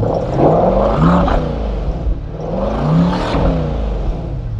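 2024 Chevrolet C8 Corvette's 6.2-litre LT2 V8 on its stock exhaust in Track mode, revved twice: each rev climbs and then falls back down.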